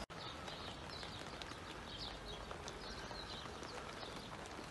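Small birds chirping: many short, high chirps repeated over a steady background hiss.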